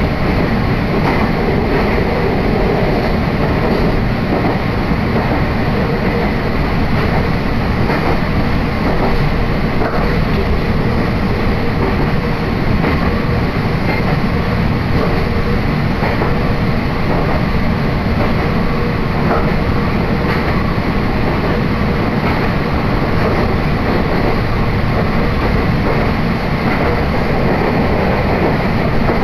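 Steady running noise heard inside a Meitetsu Hiromi Line electric train car under way, with occasional faint clicks.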